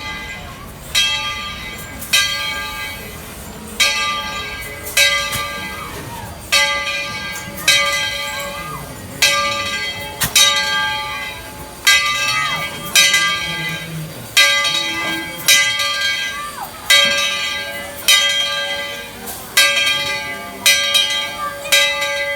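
Steam locomotive's bell ringing steadily, struck about once every second and a quarter in an even swinging rhythm, each strike ringing on into the next.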